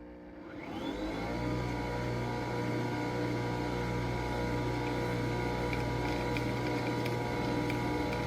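Nespresso Vertuo Pop+ coffee machine brewing: its motor spins up with a rising whine over about the first second, then runs at a steady hum.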